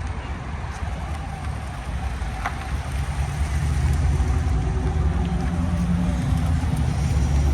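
Car engine running steadily, growing louder and deeper about three seconds in.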